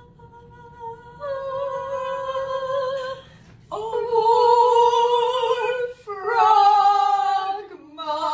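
A woman singing a slow song a cappella in long held notes with vibrato. A steady held note opens it, and the last notes step down in pitch.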